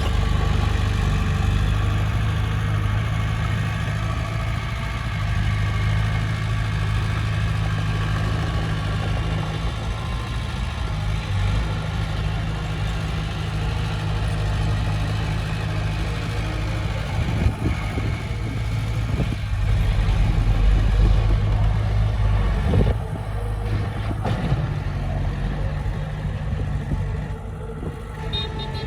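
Komatsu D20P crawler bulldozer's diesel engine running steadily, with a few short knocks and clanks from the machine working about two-thirds of the way through.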